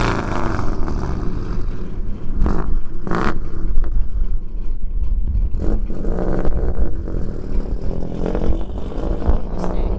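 Muscle car engine running steadily on the road, with a low drone and a few short knocks along the way.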